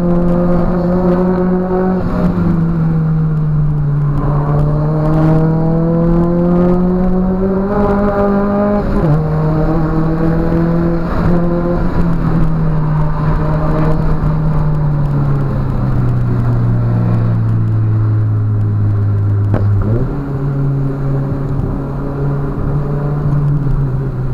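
Nissan 200SX S13's turbocharged CA18DET 1.8-litre four-cylinder with a 3-inch exhaust, heard inside the cabin, running hard with its pitch climbing. The pitch drops sharply at a gear change about nine seconds in, then falls slowly, and steps back up at a downshift about twenty seconds in as the engine gets a little quieter.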